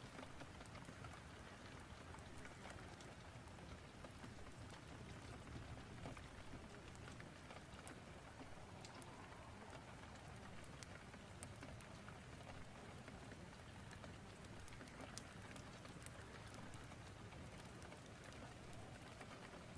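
Faint, steady rain-storm ambience: an even hiss of rain with scattered small ticks and pops, mixed with fireplace crackle.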